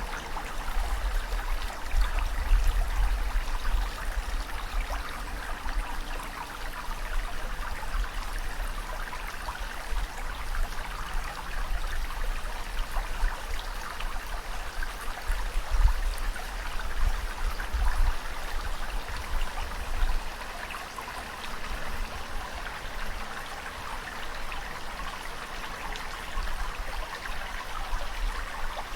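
Running water rushing and splashing steadily, with a low rumble underneath that swells and fades.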